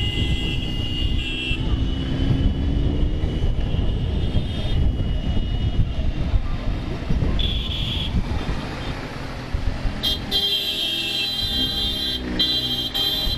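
Busy road traffic heard while riding: a steady rumble of engines and road noise, with vehicle horns honking at the start, briefly about seven and a half seconds in, and again through the last three seconds.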